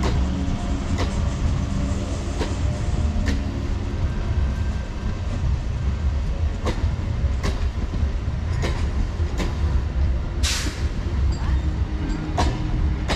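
MEMU electric train's coaches rolling past as it departs: a steady low rumble with the wheels clicking irregularly over rail joints. A short hiss comes about ten seconds in.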